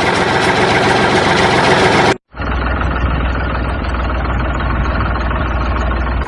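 Vehicle engine running loudly, cut off abruptly about two seconds in, then a steadier engine idle with a strong low rumble.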